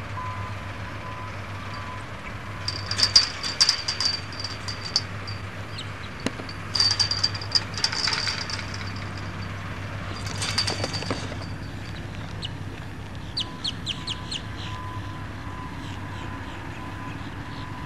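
Birds chirping in four short bursts of rapid, high chips, over a steady low hum.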